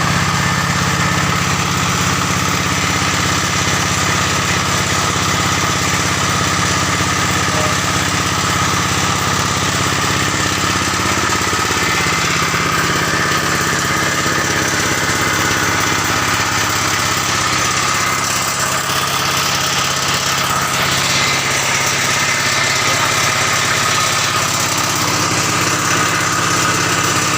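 Engine of a soil-exploration drilling rig running steadily, its low tone shifting slightly partway through.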